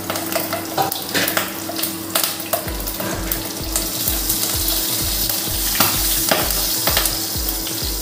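Tempering of whole cumin seeds, bay leaves, dried red chillies and green chillies sizzling in hot mustard oil in a kadai, a steady hiss with scattered crackles.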